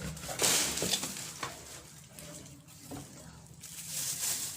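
Rustling and crinkling of the kettle's packaging as it is unwrapped by hand, louder with a few sharp clicks in the first second and a half, then quieter handling.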